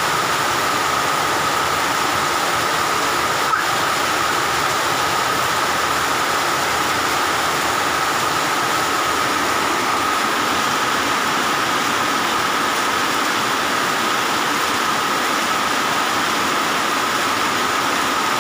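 Rain falling steadily on a concrete yard and plants: an even hiss, with a steady high tone running through it and one small click about three and a half seconds in.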